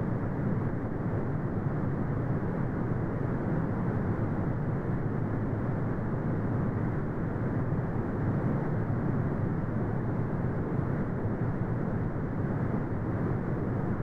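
Brown noise: a steady, deep hiss with most of its energy in the low end and little above the mids, without any change.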